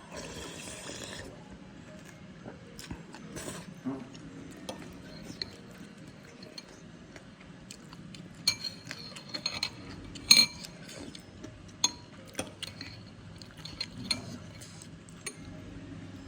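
Spoon clinking and scraping against a soup bowl while eating, in scattered light taps. The taps come thickest a little past the middle, with one sharp loudest clink.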